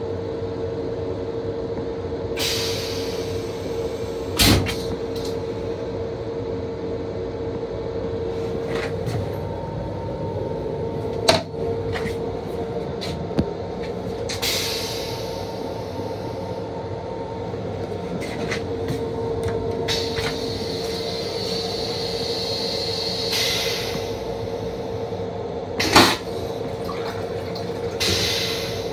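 Steady hum and rumble of a Metro-North M7 electric railcar, heard inside its small restroom, with rattles and three sharp knocks, the loudest near the end.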